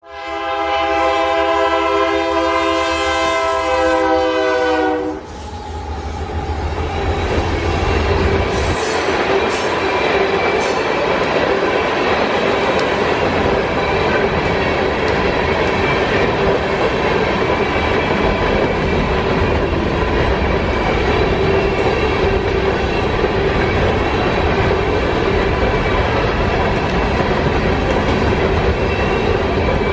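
BNSF freight locomotive's air horn sounding one long steady blast that cuts off about five seconds in. Then the steady running noise of empty hopper cars' wheels clattering over the rails as they roll past, with a few brief high wheel squeals a few seconds after the horn stops.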